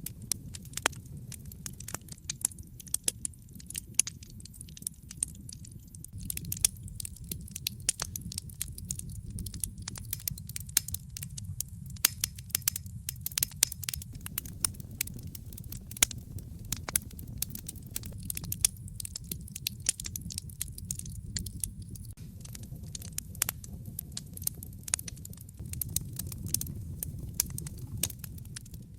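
Wood fire crackling, with frequent sharp pops and snaps at irregular intervals over a steady low rumble.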